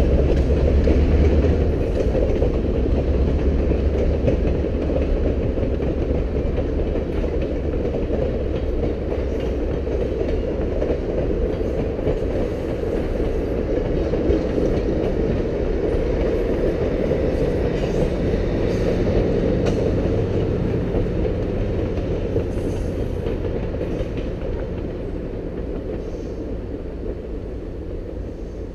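Passenger train cars rolling past over a level crossing: a steady rumble and rattle of steel wheels on rail, with a low rumble strongest at the start. It fades over the last few seconds as the end of the train moves away.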